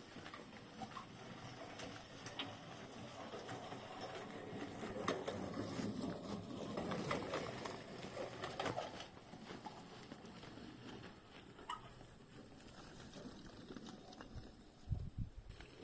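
Scraping and small clicks of red bricks being handled and set in place around a garden bed, with a few dull thumps near the end.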